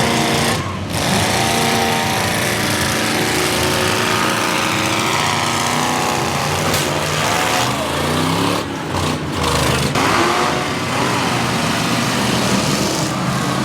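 Several demolition derby car engines revving at once, their pitches rising and falling over one another.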